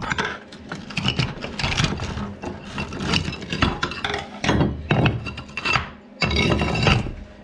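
Irregular scraping and rubbing, with a few knocks, as a stuck toilet pan is worked loose.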